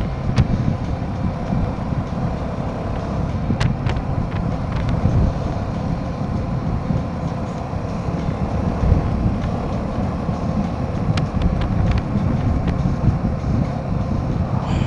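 Royal Enfield Himalayan 450's single-cylinder engine running steadily on the move, under a heavy rumble of wind and road noise, with a few light clicks.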